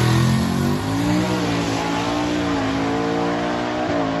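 Drag-racing pickup truck's engine running loud: the revs fall, rise briefly about a second in, then settle into a steady idle, with a small blip of the throttle near the end.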